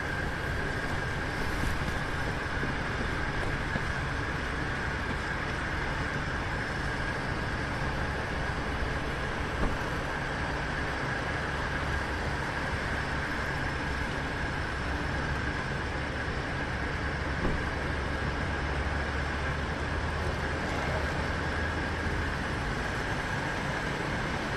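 Steady running noise of a vehicle: a low hum and rumble with a constant high whine above it, unchanging throughout, with a couple of faint clicks.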